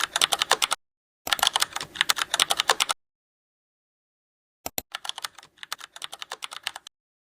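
Rapid computer-keyboard typing clicks in three short runs, with dead silence between the runs.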